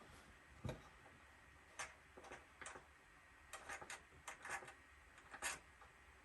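Faint, irregular clicks of buttons being pressed, a dozen or so scattered single and double clicks, with one heavier knock under a second in.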